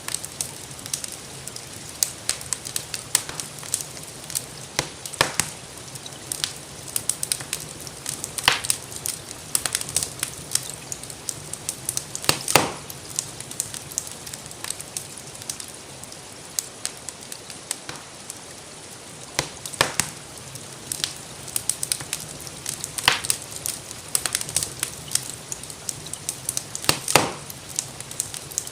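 Wood fire crackling in a fireplace, with constant small crackles and a sharper pop every few seconds, over a steady hiss of gentle rain.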